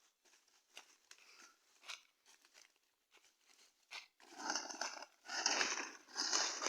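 Footsteps through forest undergrowth, with dry leaves and twigs crackling and rustling. It is faint and scattered at first, then from about four seconds in comes louder crunching, roughly one step a second.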